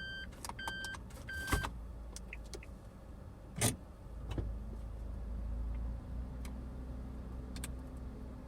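Inside a Suzuki Every kei van: a repeating electronic warning beep stops about a second and a half in, there are a couple of sharp clicks, and then the engine settles into a steady running hum.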